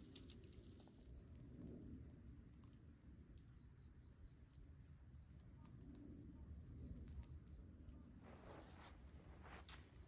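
Insects chirping faintly in a high, pulsing trill that stops and starts, with some rustling near the end.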